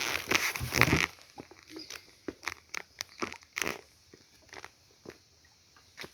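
Footsteps crunching and rustling through bush undergrowth, with a louder rustle in the first second and then a string of irregular crunches.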